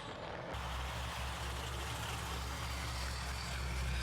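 A car's engine running, a steady low drone with road noise, heard from inside the car.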